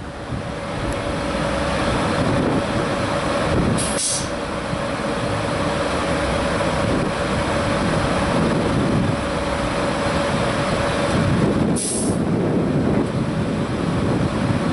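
South West Trains electric multiple unit standing at the platform with a steady electrical hum and rumble, broken by two short hisses of released air, about four seconds in and again near the end.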